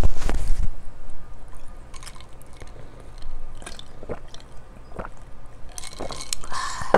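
Close-up mouth sounds of eating: chewing, with scattered small wet smacks and clicks. A louder, deeper burst comes at the very start.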